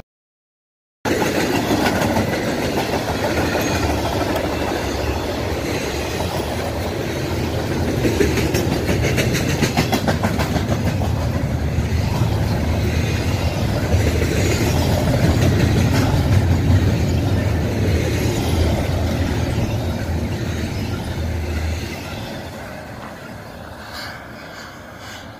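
Double-stack intermodal freight train's container cars rolling past, a steady heavy rumble with wheel clicks over the rail joints. It follows about a second of silence and fades about 22 seconds in as the train moves away.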